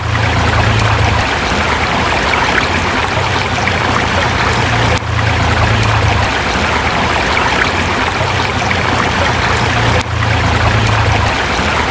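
River water rushing and splashing over rocks, a steady dense flow, with a brief dip in level about every five seconds.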